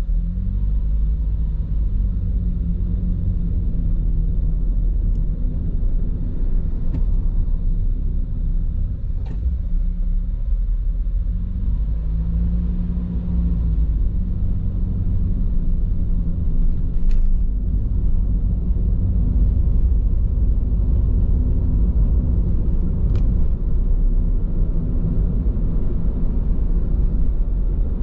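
Car road noise heard from inside the cabin while driving on Bridgestone Regno tyres: a steady low tyre-and-road rumble with a low hum that shifts in pitch a couple of times, and a few faint ticks.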